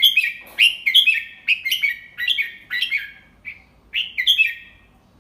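Red-whiskered bulbul singing a phrase of about ten short, quick whistled notes that stops just before the end. It is a tutor song of the 'double-3' type that Thai keepers play to teach young caged bulbuls.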